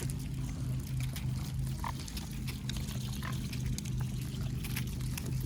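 Mute swans feeding at the water's edge: bills dabbling and snapping in the shallow water with many short clicks and splashes, over a steady low hum.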